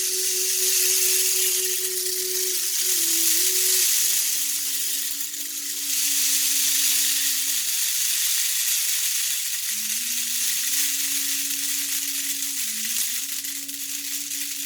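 Homemade PVC pipe rain stick being played: copper-coated BBs trickling down past plastic rings inside the tube, making a continuous rain-like hiss that swells and eases a few times.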